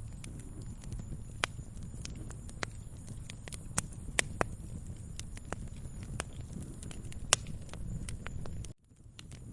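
Wood fire crackling: a steady low rumble of burning with irregular sharp pops and snaps, the loudest about seven seconds in. The sound cuts out for a moment near the end, then resumes.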